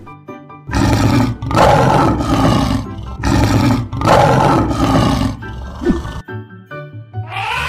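Lion roaring in a series of rough, loud roars, over light background music.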